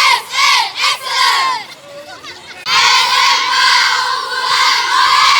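A group of young people's voices shouting and cheering: a few short high calls, then from about two and a half seconds in a long, high group yell held to the end.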